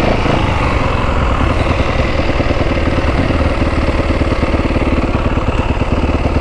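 Motorcycle engine idling close by, a loud, steady run of firing pulses.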